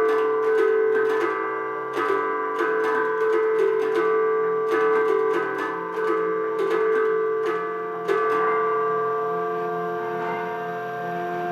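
Solenoid-driven mechanical percussion on the Meteorphonium sound machine, striking tuned percussion in quick clusters of notes that ring on and overlap. The strikes stop a little after eight seconds in, leaving sustained ringing tones.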